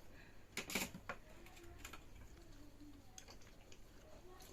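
A few soft clicks and clinks of dishes and cutlery, the loudest a cluster just under a second in, over quiet room sound.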